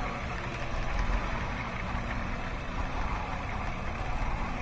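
Chrysler Town & Country V6 engine idling steadily with the hood open.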